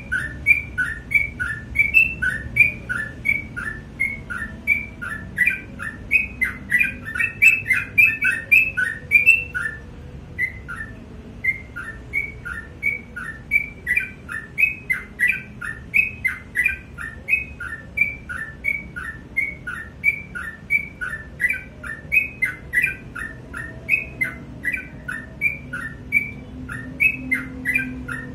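Sooty-headed bulbul (trucukan) singing persistently: short, bright notes repeated about two to three a second, with a brief pause about ten seconds in.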